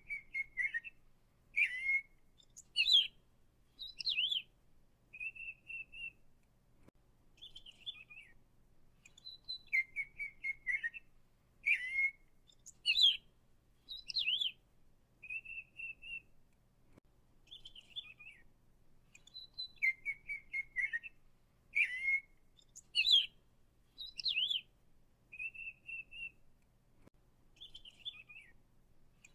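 Songbird song: a run of short whistled notes and chirps, some sliding down in pitch, with the same sequence of phrases repeating about every ten seconds.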